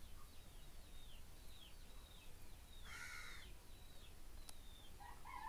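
Faint bird calls: a run of short, high, falling chirps, a harsher call about three seconds in, and a longer falling call near the end.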